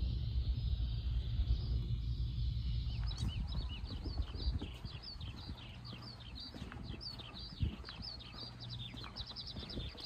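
A low rumble, which gives way about three seconds in to small birds chirping rapidly: many short, quick chirps, several a second. Light footsteps knock faintly underneath.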